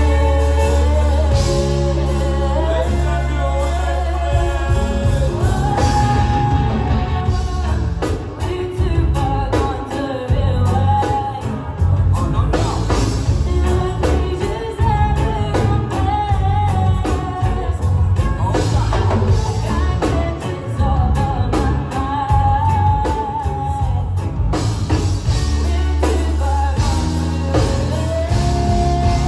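A live band playing a song with a lead singer over bass, guitar and drum kit. The drums grow busy about eight seconds in and ease off again near the end, leaving sustained vocal and bass.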